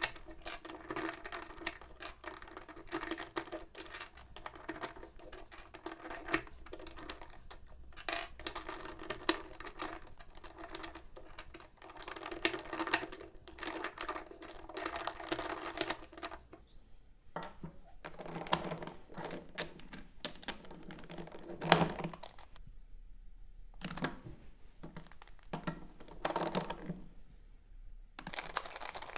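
Hard plastic pieces of an old Soviet Rubik's cube clicking and rattling as it is handled, in rapid, dense clicks like typing. About halfway through the clicking breaks into shorter separate bursts with pauses between them.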